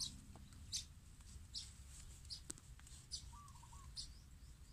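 Small birds chirping in the background, short high chirps about once a second, with a lower short warbling call a little past halfway.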